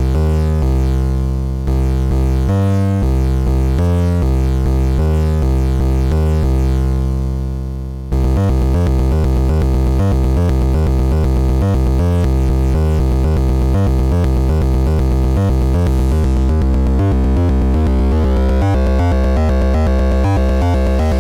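Modbap Osiris wavetable oscillator in a Eurorack synth patch, playing a sequence of stepped synth notes. About eight seconds in it changes to a busier, faster rhythmic pattern.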